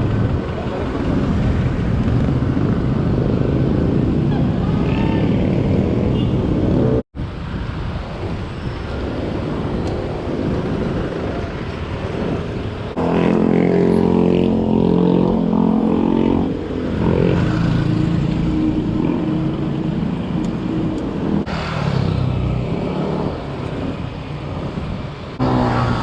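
Road traffic: a steady rumble of motor vehicles, with a passing engine's drone about 13 seconds in and weaker ones later. The sound cuts out for an instant about 7 seconds in.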